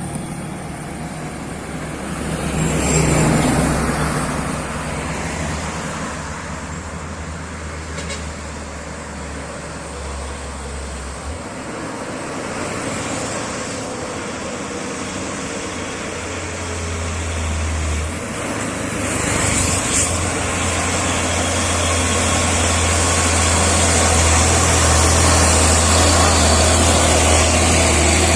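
Heavy truck diesel engine running under load in slow uphill traffic, a low steady drone. A vehicle passes close about three seconds in, and the engine grows louder over the last several seconds.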